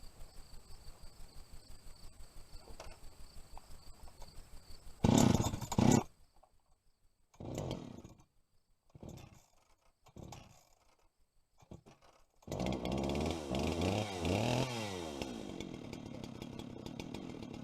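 Faint rhythmic insect chirping, then a loud burst about five seconds in and a few short bursts as the Husqvarna 390 XP chainsaw is started. Its two-stroke engine catches about two-thirds of the way through, revs up and down, and settles into steady running.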